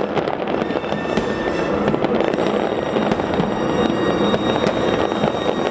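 Aerial fireworks shells bursting in a dense, continuous barrage: rapid overlapping bangs and crackling with no pause.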